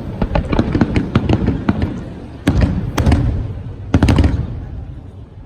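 Fireworks going off: a rapid string of cracking bangs, then three louder bangs about two and a half, three and four seconds in, the last one dying away.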